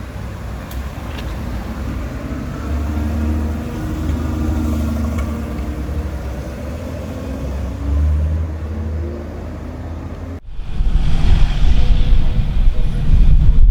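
Supercar engine running at low speed with a steady low drone, then, after a cut about ten seconds in, a louder, rougher engine rumble.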